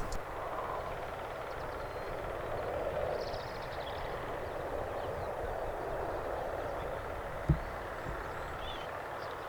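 Steady outdoor background noise, a low rush with a rumble beneath it, with one sharp knock about seven and a half seconds in.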